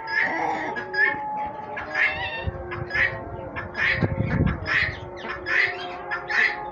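Poultry calling: a steady series of short, harsh calls, roughly one a second, over background music.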